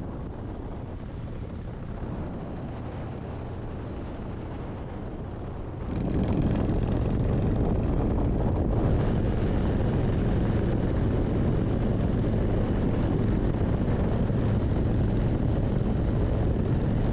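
Motorcycle engine running steadily while riding, with wind and road noise; it gets clearly louder about six seconds in.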